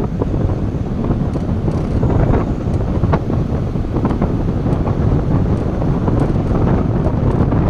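Wind buffeting the microphone: a loud, unsteady low rumble that runs on without a break.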